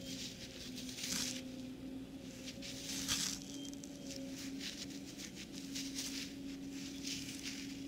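Soil being crumbled and rubbed off a freshly dug coin in the fingers: soft, irregular gritty rustles, a little louder about a second in and about three seconds in, over a faint steady hum.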